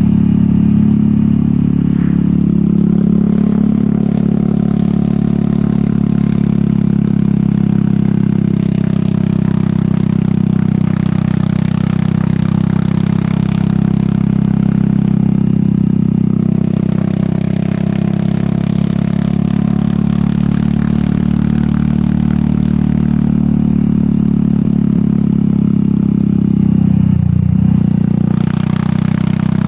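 Royal Enfield Meteor 350's single-cylinder engine running steadily at cruising speed through an aftermarket sport exhaust, with air rushing past. Near the end the engine note dips briefly and picks back up.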